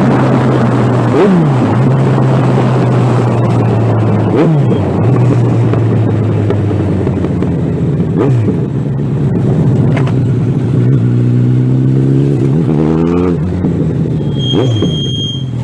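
Suzuki Bandit 1200's inline-four engine running through a straight, muffler-less exhaust pipe while riding, holding a steady note with brief changes in revs every few seconds and a climb in pitch as it accelerates near the end, over steady wind and road rush. A short high beep sounds near the end.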